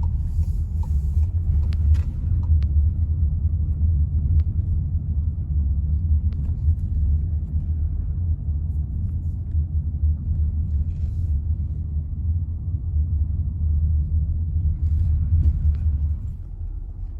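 Steady low rumble of a moving car, with a few faint clicks, easing off near the end.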